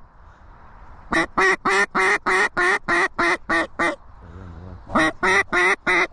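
Hunter's duck call blown in a string of loud, evenly spaced hen-mallard-style quacks, about three a second, to call in ducks. A short soft low rattle follows, then a second string of quacks begins about five seconds in.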